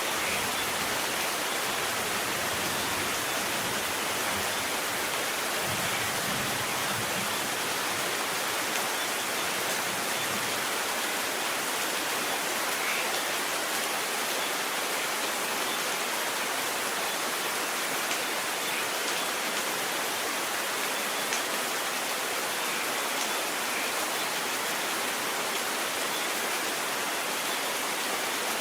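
Steady, unbroken rain, heard as an even hiss.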